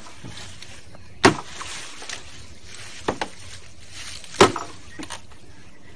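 Sharp knocks from racing-pigeon shipping crates being handled. There are two loud knocks, about a second in and again about three seconds later, with a quick pair of lighter knocks between them and a few small clicks, over a steady low background.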